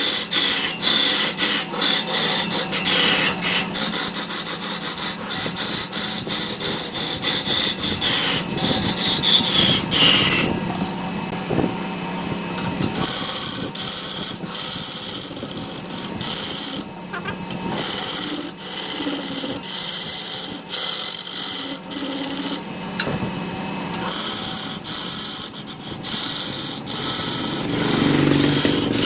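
Wood lathe running while a cutting tool scrapes into the spinning wood: a continuous rough scraping with rapid chatter over a steady motor hum, easing off briefly now and then.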